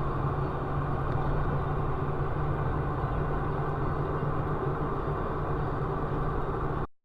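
Steady vehicle running noise, with a low engine hum and rumble, starting and cutting off abruptly.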